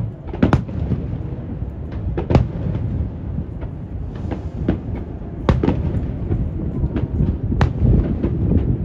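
Aerial fireworks shells bursting: a string of sharp bangs, the four loudest about two seconds apart, with weaker pops between them. Wind buffets the microphone with a steady low rumble underneath.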